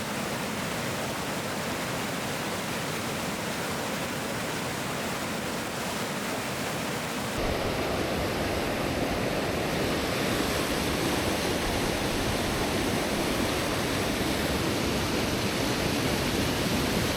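Steady rush of falling water from a waterfall and creek. About seven seconds in it jumps abruptly to a louder, fuller rush.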